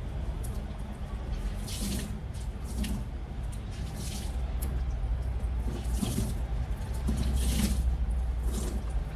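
Water splashing and dripping back into a twin-tub washing machine's wash tub as a soaked blanket is wrung out by hand, in several separate gushes, over a steady low hum.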